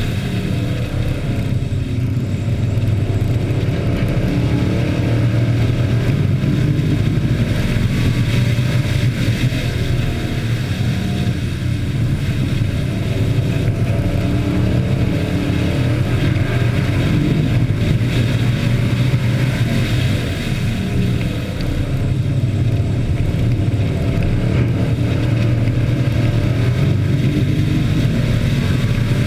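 Engines of several Hobby-class race trucks running together at racing speed, their pitch shifting up and down as drivers accelerate and lift.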